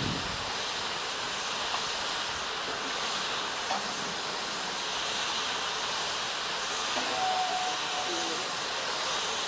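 Steady hiss of steam escaping from a standing Taff Vale Railway O2 class 0-6-2T tank locomotive.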